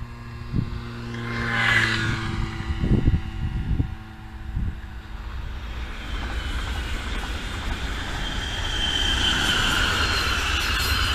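NS double-deck electric train approaching and passing close by, its running noise building to a steady rush with high-pitched wheel tones over the last few seconds. Earlier, something passes near with a falling pitch, and there are a few low thumps.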